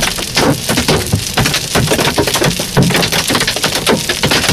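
Large hailstones, golf-ball size and bigger, pounding a truck in a dense, irregular clatter of sharp impacts.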